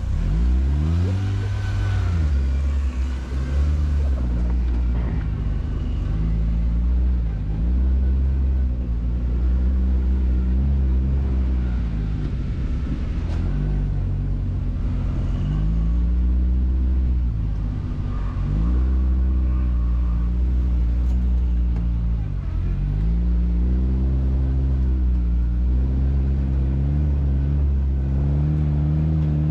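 Quad bike (ATV) engine running loud under load, its pitch rising and falling again and again as the throttle is opened and eased off over some dozen cycles.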